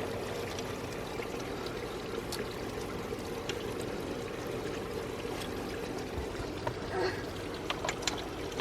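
Steady background hum with an airy, rushing noise, and a few light clicks near the end.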